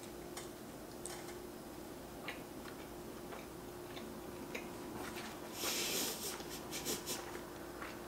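Close-miked chewing of a bite of cheeseburger with toasted bun and arugula: soft, scattered wet mouth clicks and smacks, with a brief louder hissy burst of chewing about five and a half seconds in.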